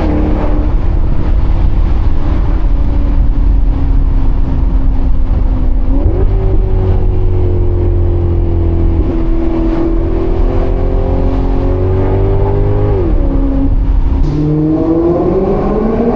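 Maserati GranCabrio's Ferrari-derived 4.7-litre V8 driving under load. The engine note jumps up sharply about six seconds in and again near thirteen seconds, then climbs steadily as the car accelerates near the end.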